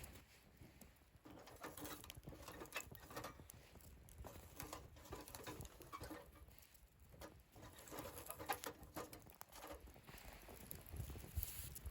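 Wood fire burning in a portable fire stand, faintly crackling and popping, with clusters of small snaps every second or two.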